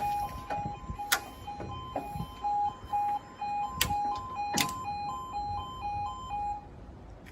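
British level crossing yodel alarm sounding as a pulsing two-tone warble that stops about two-thirds of the way through, with a few sharp clicks over it.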